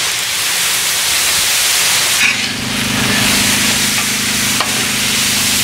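Rice and stir-fry chicken and vegetables sizzling on the hot steel top of a Blackstone 36-inch propane griddle while a spatula stirs them. A steady low hum joins in about two seconds in.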